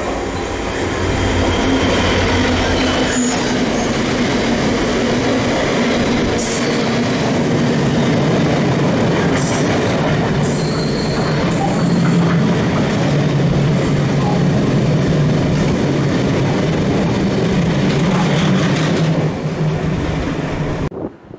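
GB Railfreight Class 66 diesel locomotive, its EMD two-stroke engine running low for the first few seconds as it passes. A long rake of loaded cement tank wagons then rolls by with steady wheel-on-rail noise and occasional clicks over the rail joints, cutting off just before the end.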